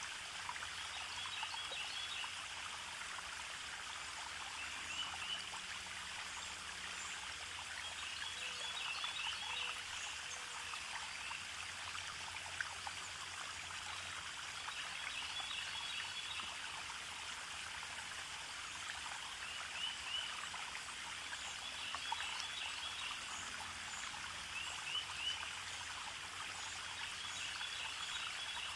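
A forest stream trickling and running steadily. Short clusters of high chirps recur every few seconds over the water.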